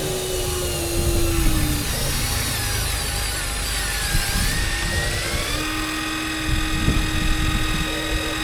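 Electric motors of 1:14-scale Huina RC construction machines whining as they run, over a rough low rumble. One high whine dips in pitch about halfway through and climbs back, while a lower steady whine holds, drops and comes back in again.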